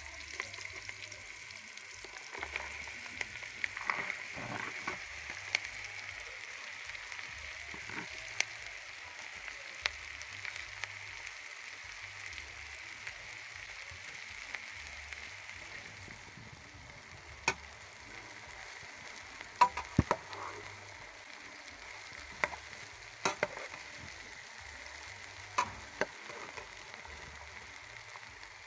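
Sliced okra sizzling steadily as it fries in hot oil with onions in a pot. Sharp knocks and scrapes of a utensil stirring against the pot come now and then, more often in the second half.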